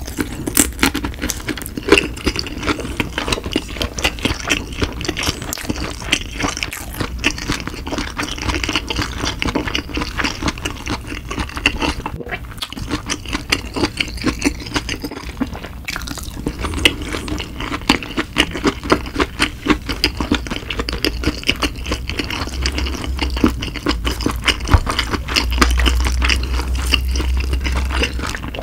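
Close-miked wet chewing of soft sushi nigiri: a rapid, irregular run of sticky mouth clicks and squishes.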